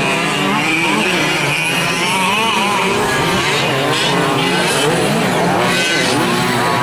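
Several 1/5-scale gas RC trucks' small two-stroke engines racing together, overlapping pitches rising and falling as they rev up and back off through the corners.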